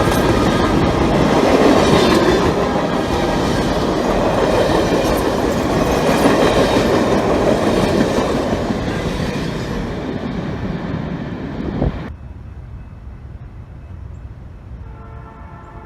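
A train passing close by, its wheels and cars making a loud, steady rolling rumble that eases off, then cuts off abruptly about twelve seconds in. After that it is much quieter, with a faint steady tone coming in near the end.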